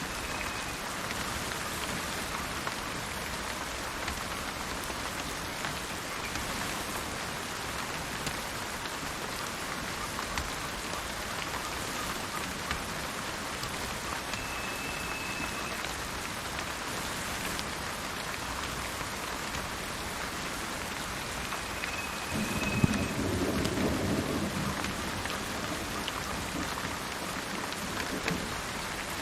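Steady rain falling, with a roll of thunder about 22 seconds in that starts with a sharp crack and rumbles for a few seconds. A bird gives three short, thin whistled notes, spread through the clip.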